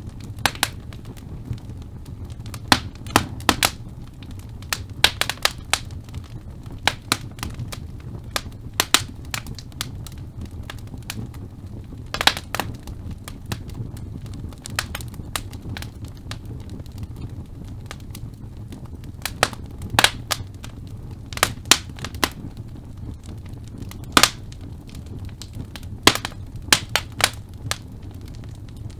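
Wood fire burning in a fireplace: logs crackling and popping at irregular intervals, some pops sharp and loud, over a steady low rumble of the flames.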